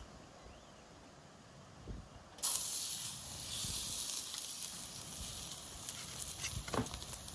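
Wood fire burning in a fire pit, crackling and hissing; it starts abruptly about two and a half seconds in, after a faint low rumble.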